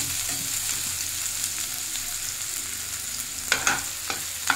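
Chopped onion, green chilli and garlic sizzling in hot oil in a non-stick kadai while a metal slotted spatula stirs them. From about three and a half seconds in, the spatula scrapes across the pan several times in quick succession.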